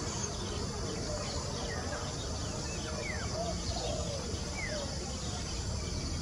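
Bird calling with short whistles that slide down in pitch, three times a second or so apart, over a steady high background hiss of insects.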